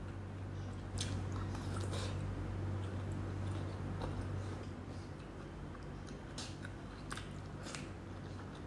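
A person chewing a mouthful of rice and meat with mouth sounds and a few sharp wet smacks and clicks, over a steady low hum.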